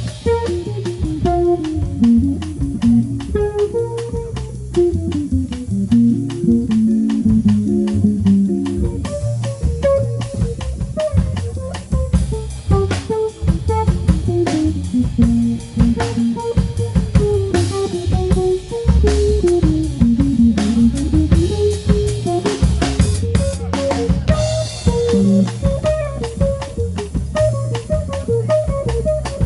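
A jazz combo plays an instrumental break: an electric guitar carries a single-note melody over walking double bass and a drum kit.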